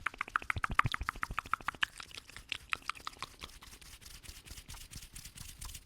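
Close-up wet mouth sounds: a fast run of tongue and lip clicks, many a second, louder in the first two seconds and softer after.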